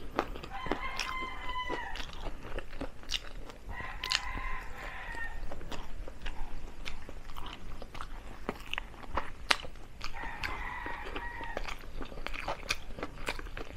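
Close-up chewing and crunching of crispy deep-fried chicken feet, bones and all, with sharp crunches scattered throughout. Three faint, drawn-out high tones sound in the background, each lasting about a second and a half.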